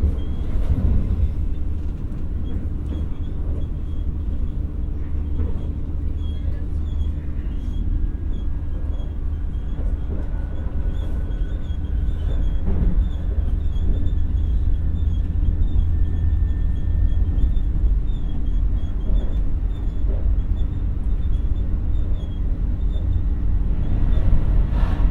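X60 electric multiple unit running at speed, heard from inside the passenger car: a steady low rumble of wheels on rail. A faint high whine comes in for several seconds in the middle.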